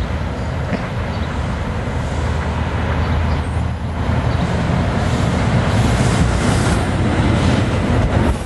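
Diesel locomotive of a commuter train running close by: a steady low engine rumble that grows louder about four seconds in.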